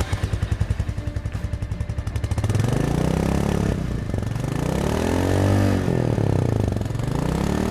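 Royal Enfield Meteor 350's 349 cc single-cylinder four-stroke engine idling with a quick, even thump from the exhaust. From about two and a half seconds in, it is revved up and back down repeatedly, the pitch rising and falling with each blip of the throttle.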